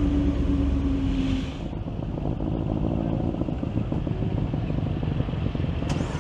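A motor vehicle's engine running with a rapid low pulsing rumble. A steady low hum in the mix stops about one and a half seconds in.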